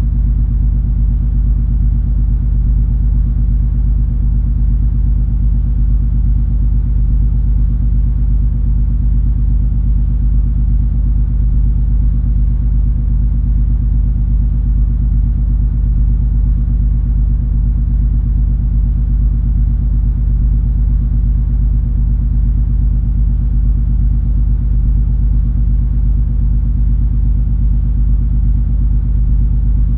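Steady low drone of the cruise ferry MS Color Fantasy under way, heard on board: a deep engine rumble with a constant hum that does not change.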